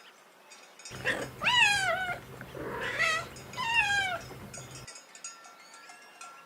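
Domestic cat meowing twice, each meow about a second long, rising and then falling in pitch, with a fainter meow near the end.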